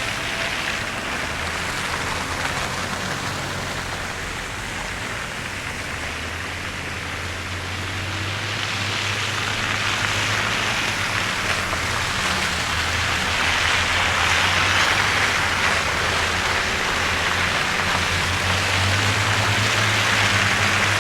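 Steady hiss of tyres on a wet, slushy snow-covered road, swelling about halfway through as traffic passes, over a low steady engine hum.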